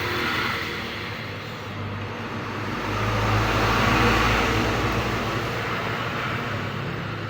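A road vehicle passing by, its engine hum and road noise growing louder to a peak about four seconds in and then fading.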